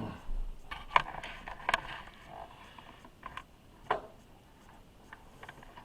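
Handling noise as the camera is moved down and repositioned: a few sharp knocks and clatters with light rustling between them.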